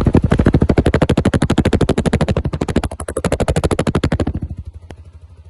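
Yamaha XT 660's single-cylinder four-stroke engine running after a crankshaft bearing replacement, with a fast, even exhaust beat and no knock left. About four seconds in, the sound drops away sharply.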